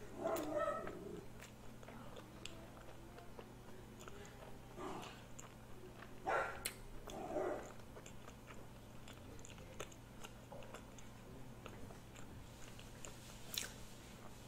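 A person chewing a spicy dumpling with the mouth closed: faint, soft chewing clicks. Near the start there is a short breathy exhale through the open mouth, a reaction to the heat, and a few brief soft mouth or voice sounds later.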